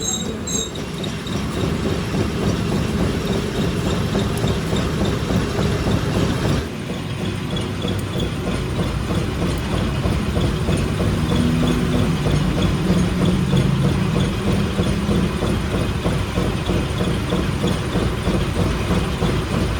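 Workshop machinery running steadily, a dense mechanical noise without speech, with an abrupt change about a third of the way through.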